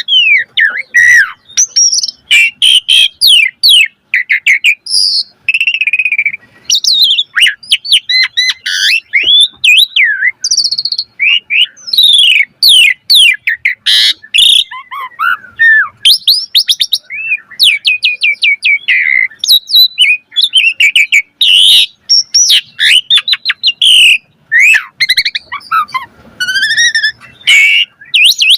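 Javan pied starling (jalak suren) singing a long, varied song: rapid whistles, rising and falling slurred notes, and chattering clicks following one another almost without a break.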